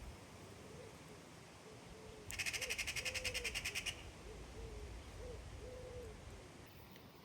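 A bird's soft, low hooting calls, a string of short notes with a couple of longer ones. A louder, rapid high rattle of about ten pulses a second breaks in for about a second and a half in the middle.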